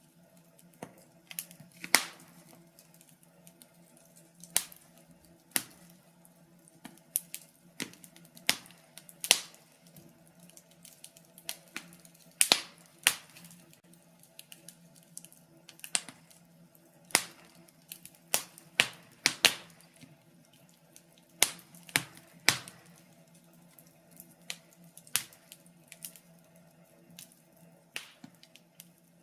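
Wood fire crackling: irregular sharp pops and snaps, some single, some in quick clusters, over a faint steady low hum.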